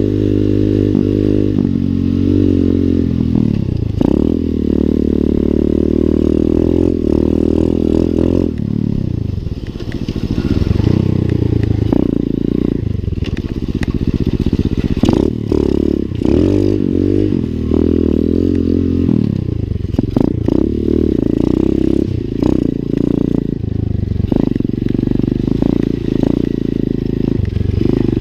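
A 125 cc single-cylinder four-stroke pit bike engine being ridden, its pitch repeatedly rising under throttle and dropping back off it, with some clattering knocks over the top.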